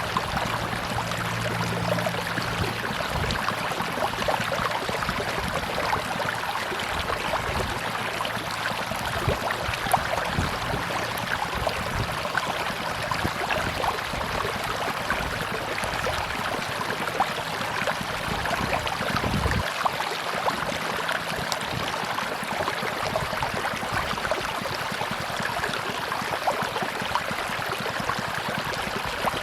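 Tropical river water rushing and babbling steadily over its bed, with small splashes ticking through it. A faint low drone sits under the water in the first couple of seconds and fades out.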